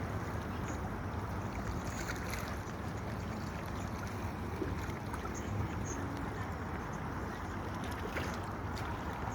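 Steady low rumble of a boat's engine as the boat comes into the harbour, with wind and water noise.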